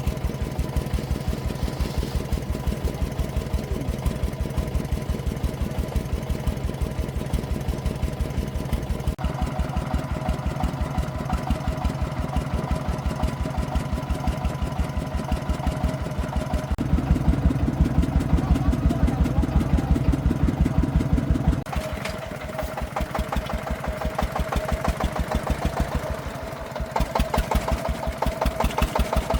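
Single-cylinder diesel engine of a công nông agricultural vehicle running with a rapid, even thump. It grows louder for several seconds past the middle, drops back, dips briefly near the end and then picks up again.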